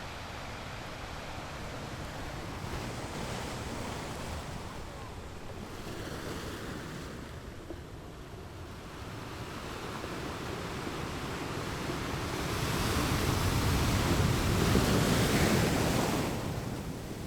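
Wind rushing over the microphone with lake water washing, a steady noise that swells louder about twelve seconds in and eases off near the end.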